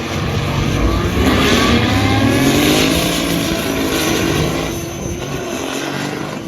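Diesel truck engine revving: its pitch climbs over the first few seconds, then eases back down and fades near the end.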